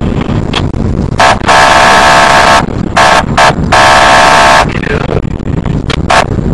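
Police patrol car's horn sounding loudly in a series of steady-pitched blasts: a short one, a long one of about a second, two quick ones, another long one, then two brief toots near the end. Under it runs a steady rumble of engine and road noise.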